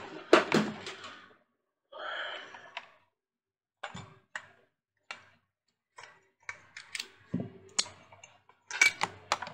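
Scattered light clicks and taps of small parts and tools being handled on a workbench, with a short rustle about two seconds in and a quicker run of clicks near the end.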